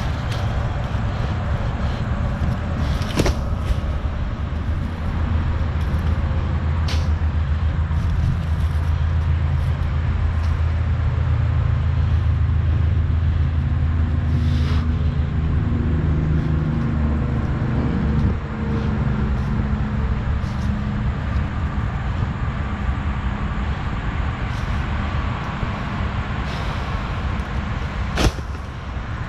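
Gator utility vehicle's engine running steadily, climbing in pitch and getting stronger through the middle, then easing off. A few sharp knocks or clanks sound over it, the loudest near the end.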